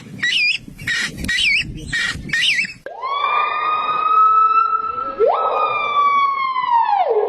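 Four short squawking bird calls, each bending quickly up and down in pitch, repeated about every two-thirds of a second. They are followed by one long siren-like wail that holds steady for over four seconds, jumps back up once partway through, and falls away at the end.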